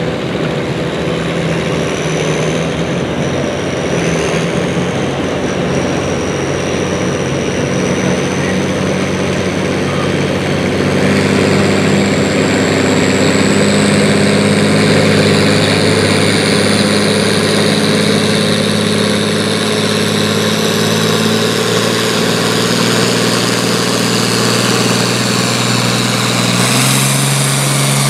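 Diesel pulling-tractor engine running hard under load, with a high turbo whine that climbs steadily in pitch. The engine gets louder about a third of the way in.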